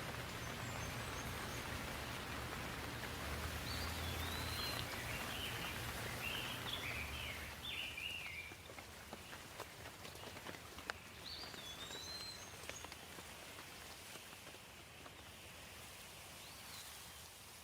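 Steady rain falling, with individual drops tapping. Songbirds chirp in short phrases about four seconds in, around six to seven seconds, near twelve seconds and once more near the end. A low rumble under the rain fades out about halfway through.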